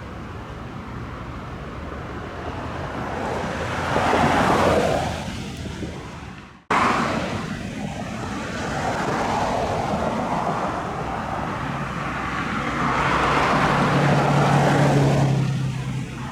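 Two vehicle pass-bys, each a rushing noise that swells and fades. About six and a half seconds in the sound cuts off sharply and starts again. The second pass-by carries a steady low hum as it peaks.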